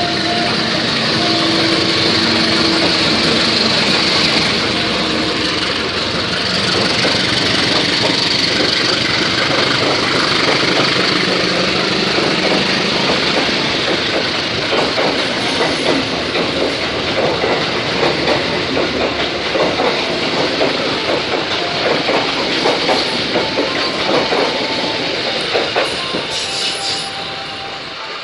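A passenger train hauled by a diesel-electric locomotive passes close by. First comes the steady running of the locomotive's engine, then the wheels of the passenger cars clatter over the rail joints, and the sound fades near the end as the train moves away.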